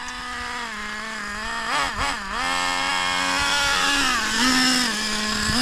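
Nitro-powered RC truck engine (Traxxas Nitro Slayer) running steadily at a high idle. It dips briefly about two seconds in and rises in pitch for a moment around four seconds.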